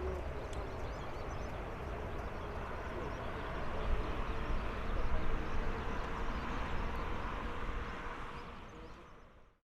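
Jet engines of a Boeing 787-9 airliner, a steady rumble and hiss with a faint whine. The sound swells about four seconds in, then fades out near the end.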